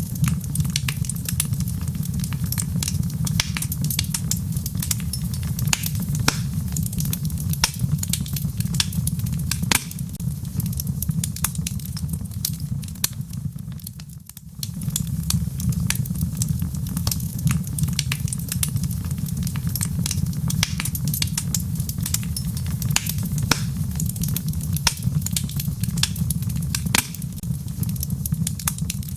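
Wood logs burning in a fireplace, with dense, irregular sharp crackles and pops over a steady low rumble of the flames. The sound dips quieter for a moment about halfway through.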